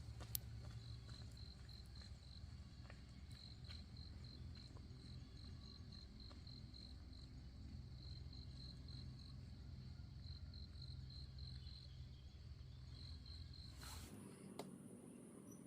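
Faint cricket chirping: a high, rapidly pulsed trill in runs of a second or two with short breaks, over a low steady rumble. Both stop abruptly near the end.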